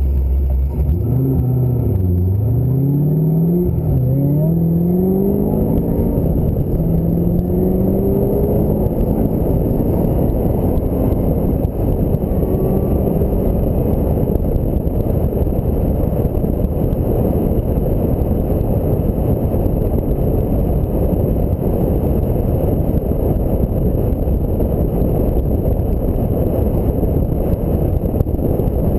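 Ford Mustang SVT Cobra's V8 accelerating through the gears: the engine pitch climbs, drops at each shift and climbs again for the first several seconds. After that comes a steady rush of road and wind noise at speed.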